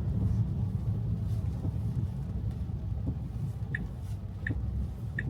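Steady low road and tyre rumble inside a Tesla's cabin on a wet road. From about three and a half seconds in, the turn-signal indicator starts ticking, about one tick every three quarters of a second, as the driver signals for a lane change.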